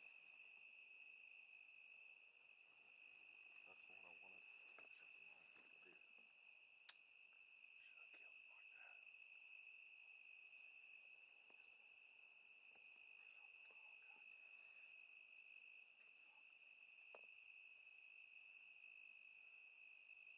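Faint, steady cricket chorus, one unbroken high trill, with a single sharp click about seven seconds in.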